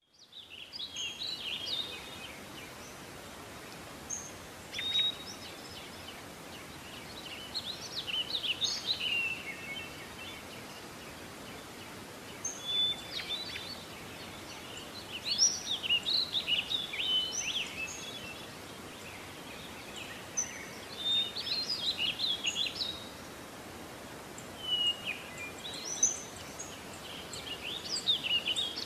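Small birds singing and chirping in phrases that come and go every few seconds, over a steady hiss of background noise.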